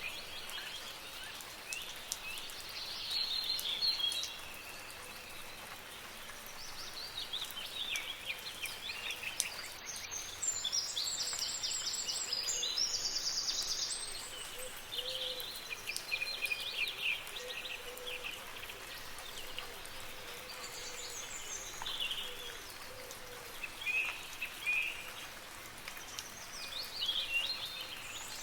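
Several songbirds calling and singing over the steady soft hiss of light rain. A fast, high, buzzy trill from about ten to fourteen seconds in is the loudest call.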